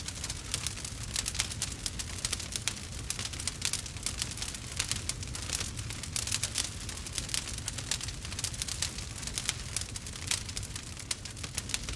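Wood fire crackling steadily in a fireplace: many small irregular pops and snaps over a low rumble of flame.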